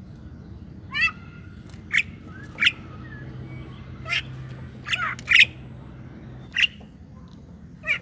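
Bird squawking in short, sharp calls, about one a second.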